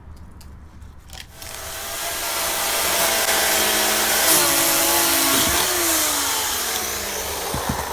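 Two-stroke chainsaw revving up to full speed about a second and a half in, running loud, then its pitch falling steadily as it slows back down.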